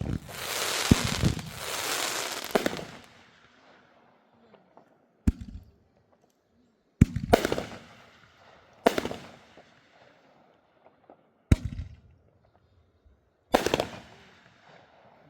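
Consumer fireworks going off. A dense crackling, hissing burst lasts about the first three seconds, then five separate loud bangs come roughly every two seconds, each trailing off into crackle and echo.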